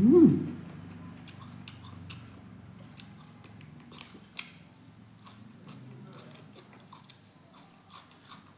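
Close-up mouth sounds of a person eating by hand: chewing boiled pork, rice and fresh greens, with lip-smacking and finger-sucking that make many small sharp clicks. It opens with a brief loud hum of the voice that rises and falls in pitch.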